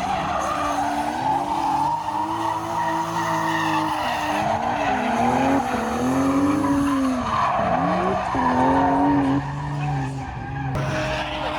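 Drift car sliding through a run: the engine revs rise and fall again and again against the throttle while the tyres squeal steadily.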